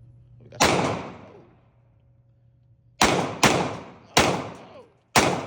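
Five single gunshots, each cracking sharply and dying away with a short echo. The first comes about half a second in; the other four follow from about three seconds in, spaced a half to one second apart.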